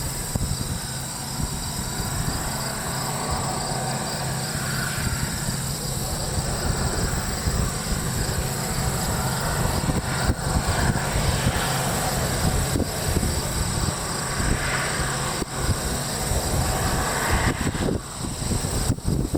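Diesel locomotives leading a coal train running past, a steady heavy engine rumble, with insects buzzing steadily and high.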